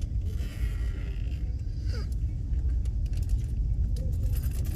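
Vehicle engines running with a steady low rumble, with scattered clicks over it.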